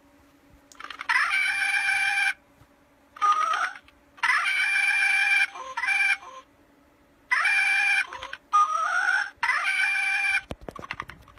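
Hasbro giant Porg toy's built-in sound chip playing bird-like Porg calls through its small speaker. There are about seven bursts of half a second to a second each, some starting with a rising glide. A few clicks follow near the end.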